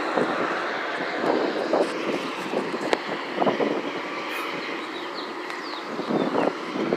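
Steady rushing noise of a passing vehicle.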